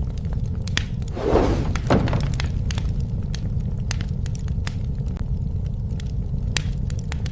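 Bonfire burning, a steady low rumble of flames with frequent sharp crackles and pops from the burning wood. About a second in there is a brief louder rushing burst.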